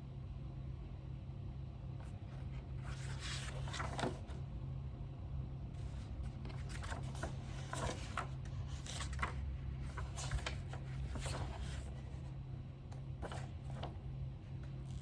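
Scattered scratching and rustling of paper and stationery being handled at a desk, heaviest in the middle, over a steady low hum.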